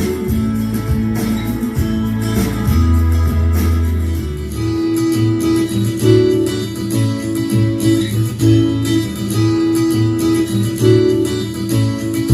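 A portable speaker playing a song with plucked guitar and a heavy bass line; the bass pattern changes about halfway through.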